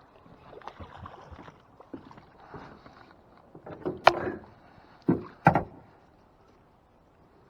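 Knocks and clatter of handling in a small fishing boat: light scattered clicks, then sharp knocks about four seconds in and twice more about a second later. It goes quiet near the end.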